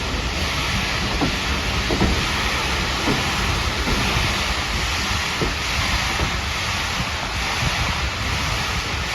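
A steam-hauled heritage train running along, heard from aboard with a steady rushing noise, wind on the microphone and a few light clanks.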